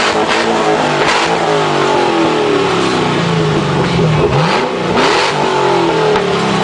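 American car engines being revved, their pitch rising and falling in repeated throttle blips, with a quick sharp rev and drop about four seconds in.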